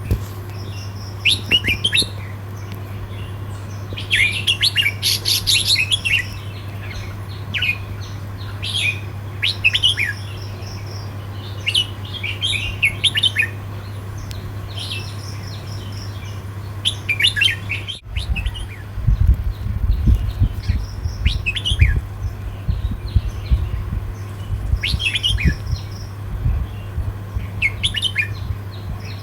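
Red-whiskered bulbul singing short, quick phrases again and again, with gaps between. A steady low hum runs underneath, and low thumps come in for several seconds after the middle.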